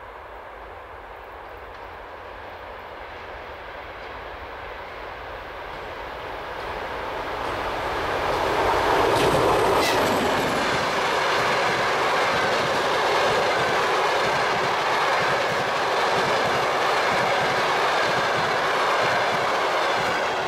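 Passenger train hauled by an M62K diesel locomotive approaching and passing. The sound grows over the first several seconds to full loudness about nine seconds in, then stays loud with the steady clatter of wheels on the rails as the coaches roll by.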